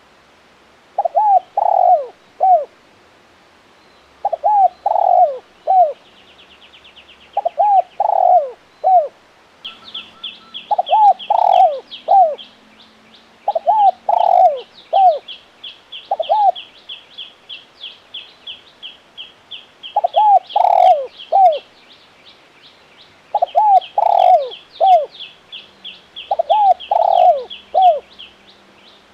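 Spotted dove cooing over and over, each phrase of three or four low notes repeated about every two to three seconds, with one longer gap in the middle. From about ten seconds in, a fast, high chirping of another bird, several notes a second, runs on behind the coos.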